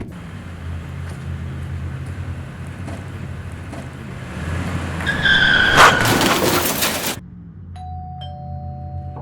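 A truck's engine running and pulling away, building to a loud stretch with tyres squealing about five seconds in, which cuts off suddenly a little after seven seconds. The engine keeps running low, and a two-tone chime sounds near the end.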